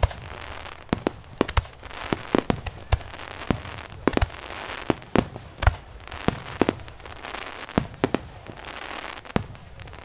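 Aerial fireworks bursting in rapid, irregular succession, several sharp bangs a second over a steady crackling hiss.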